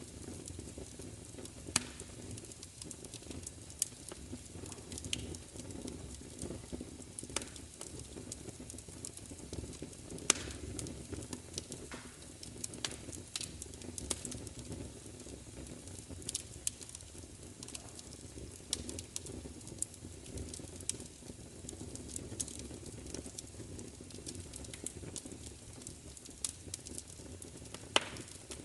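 Wood fire crackling: irregular snaps and pops, a few of them louder, over a steady low rumble of burning.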